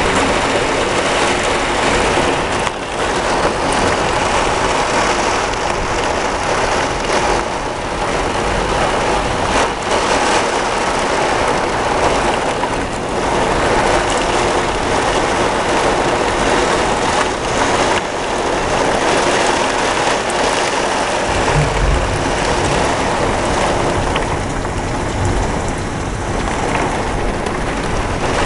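Heavy rain pouring down steadily in a severe thunderstorm, with a low rumble rising out of it about three-quarters of the way through.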